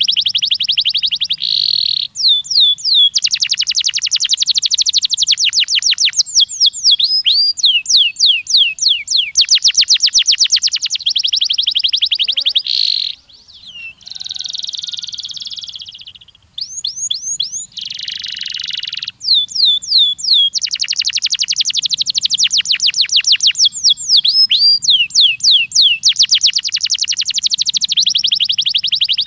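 Canary singing a long, loud song of rapid trills and repeated downward-sweeping whistled notes, pausing briefly near the middle.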